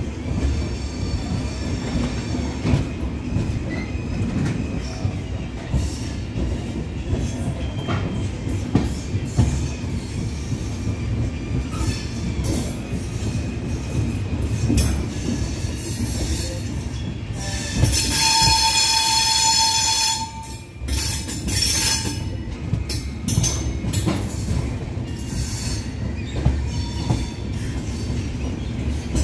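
Passenger train running along the track, heard from on board: a steady rumble of wheels on rail with irregular clacks over rail joints and points. About eighteen seconds in, a loud high-pitched ringing tone sounds for about two seconds.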